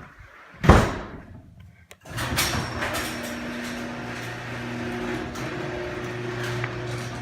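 A car door shuts with a bang, then about two seconds in a stock 2017 Ford Fiesta ST's 1.6-litre turbocharged four-cylinder starts, flares briefly and settles into a steady idle through the stock exhaust.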